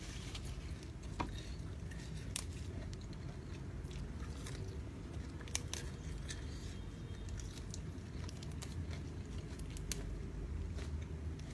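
A person chewing raw seafood close to the microphone, with wet crunching and scattered sharp clicks at irregular intervals over a steady low hum.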